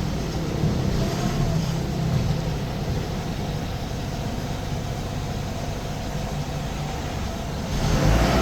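An engine running steadily with a low hum, getting louder shortly before the end.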